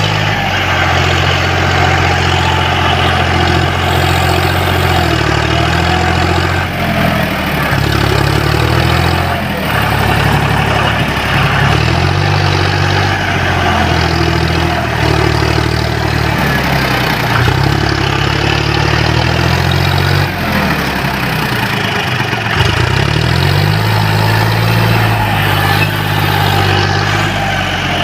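John Deere 5045 D tractor's three-cylinder diesel engine running hard. Its speed falls and picks up again several times, as it works to pull free of the mud.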